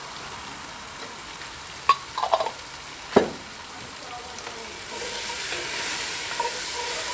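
Onion, carrot, capsicum and potato sizzling with curry paste in a camp oven, with two knocks about two and three seconds in. From about five seconds in the sizzle grows louder as the vegetables are stirred through with a utensil.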